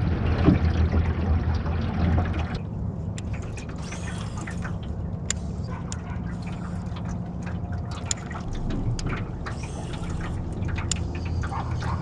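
Water lapping and dripping against a small jon boat while its motor runs with a low steady hum, with a few light clicks and splashes. Wind noise on the microphone for the first couple of seconds, then it drops away.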